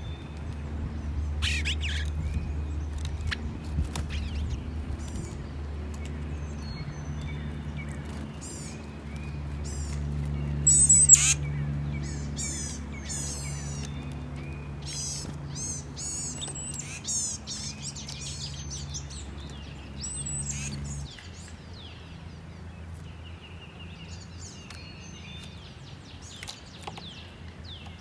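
Backyard songbirds calling, a scatter of short high chirps and quick twittering notes from several birds. A steady low hum runs underneath and drops away about three quarters of the way through.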